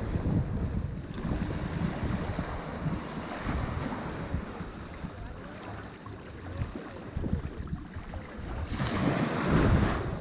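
Ocean surf washing on the shore, a continuous rushing hiss over a low rumble, with a wave breaking and surging loudest near the end. Wind buffets the microphone.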